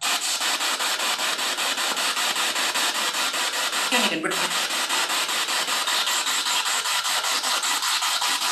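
Spirit box scanning through radio stations, giving a steady hiss of static chopped into even pulses several times a second. About four seconds in, the static dips and a brief snatch of a voice breaks through.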